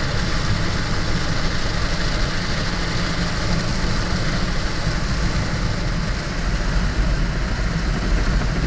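Automatic car wash running, heard from inside the car's cabin: a steady rush of water and spinning brushes over a constant low rumble.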